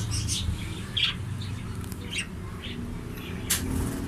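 Small aviary parrots squawking and chirping in short scattered calls over a low steady hum.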